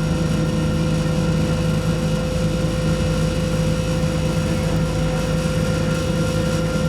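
Class 172 Turbostar diesel multiple unit's underfloor diesel engine and drive running at a steady speed, heard inside the carriage: a constant low hum with a steady higher whine above it.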